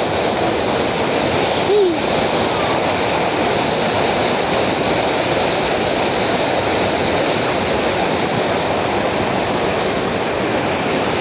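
River water rushing steadily, with a short distant voice calling out about two seconds in.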